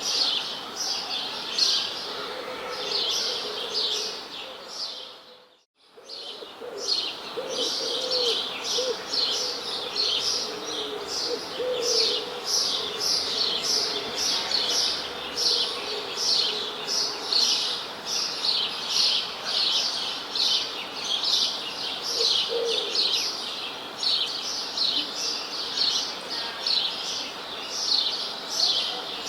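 Small birds chirping in a dense, continuous run of short high chirps, several a second, with now and then a fainter, lower call. About five to six seconds in, the sound fades out briefly and comes back.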